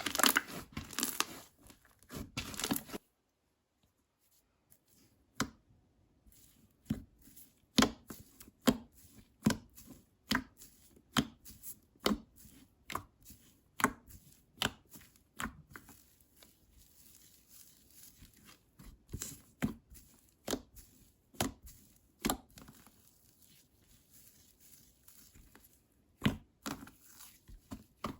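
Slime being pressed and poked: sharp clicking pops, dense and crackly at first, then after a short pause single pops about every half second, and dense crackling again near the end.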